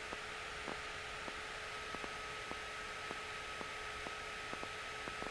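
Steady electronic hiss and hum from the cockpit intercom or radio audio feed, with faint ticks about twice a second. No engine sound comes through it.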